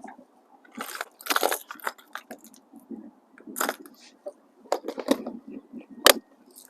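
Fishing tackle being handled: irregular clicks, rattles and rustles as a lure is swapped, with a sharp click about six seconds in.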